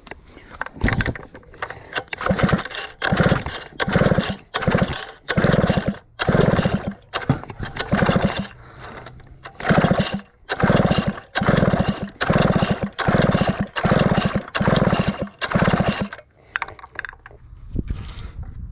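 Stihl 051 chainsaw turned over by quick, repeated pulls on its recoil starter, about two pulls a second, stopping about sixteen seconds in. The spark plug is out, so the engine spins without firing and each pull blows carb cleaner and debris out through the exhaust.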